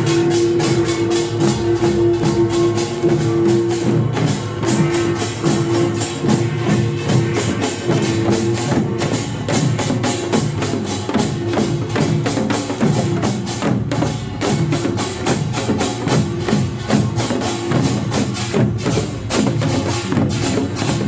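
Korean pungmul band playing: kkwaenggwari small gongs clang in a fast, dense beat over janggu and buk drums and jing gong, with a steady held tone running above the percussion.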